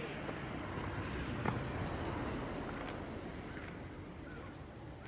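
Steady outdoor background noise with faint distant voices and a single light click about a second and a half in.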